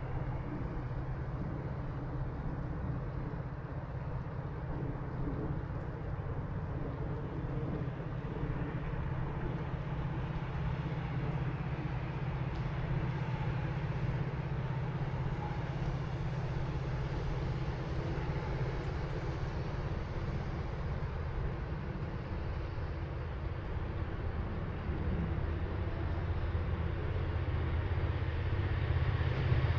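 Metra commuter train approaching on the BNSF line: a steady low diesel-engine hum with rail noise that grows louder over the last few seconds.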